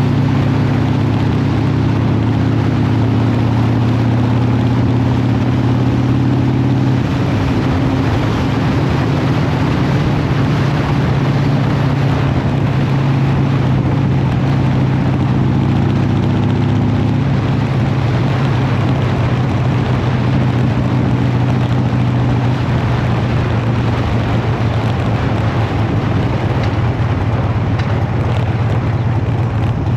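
Harley-Davidson V-twin motorcycle engine running steadily on the move, with wind rushing over the microphone; the engine note changes about seven seconds in.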